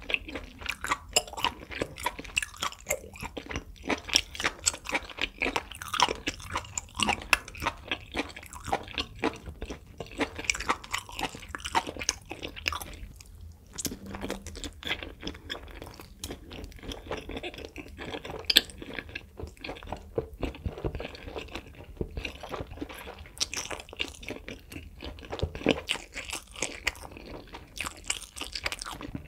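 Chewing of grilled beef intestines, with a short pause just before the middle. After the pause comes a bite into a spicy fire-noodle wrap, followed by more chewing.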